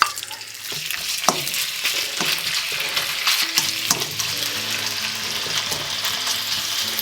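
Pieces of chicken breast sizzling as they fry in hot rice bran oil in a wok. The sizzle starts suddenly as the meat goes in and then holds steady, with scattered clicks through it.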